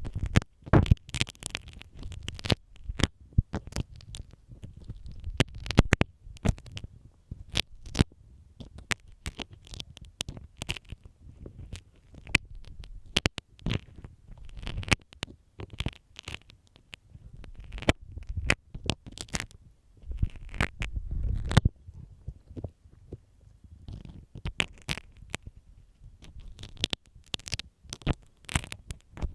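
Sewing pin (marking pin) scraping and tapping in the ear of a binaural microphone: irregular sharp scratchy clicks over a low rumble of contact on the mic.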